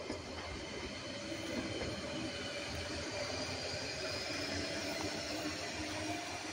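Electric multiple-unit passenger train rolling past: a steady rumble of wheels on rail with a faint whine.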